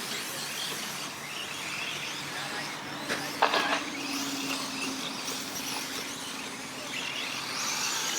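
Electric 4wd short course RC trucks racing: the high-pitched whine of their motors and drivetrains over a steady hiss of tyres on the track. A couple of sharp knocks come about three to three and a half seconds in.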